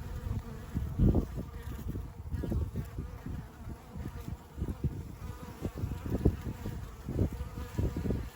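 Honeybees buzzing as they fly in and out of a log hive, single bees passing close in quick, uneven swells.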